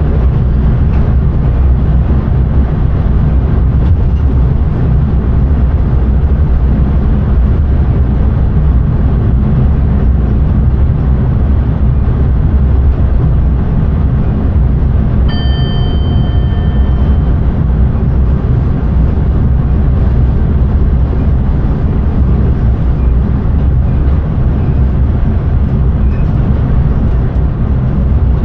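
Intercity train cab noise at speed: a steady, loud rumble of the running train. About halfway through, a short pitched tone sounds for under two seconds.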